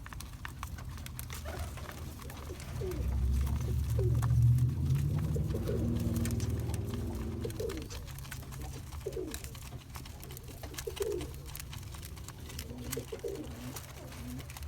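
Cock pigeons cooing repeatedly, with scattered light clicks. A low rumble swells up a few seconds in and fades again by the middle.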